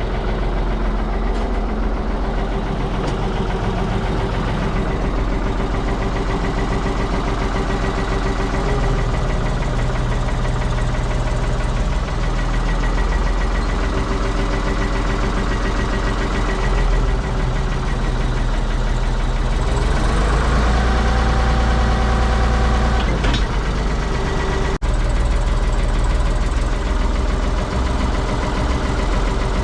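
Ford 555 backhoe loader's diesel engine running steadily under load as the machine lifts and swings. About twenty seconds in the engine gets louder and higher tones join for a few seconds.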